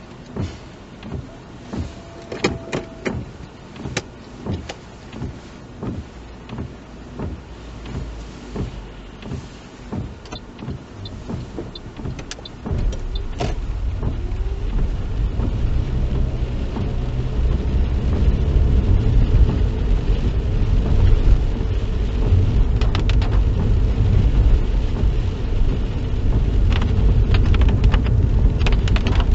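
Car's turn indicator ticking about one and a half times a second while the car waits at the kerb. About halfway through, engine and tyre noise jump up and build into a steady low rumble as the car pulls away and gathers speed.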